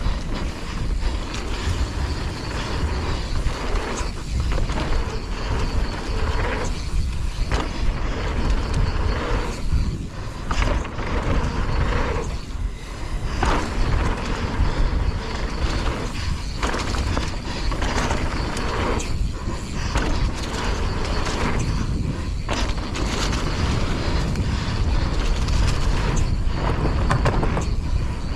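Mountain bike running fast down a rough trail, with the chain and frame rattling and clattering over the bumps and a steady low wind rumble on the helmet camera's microphone.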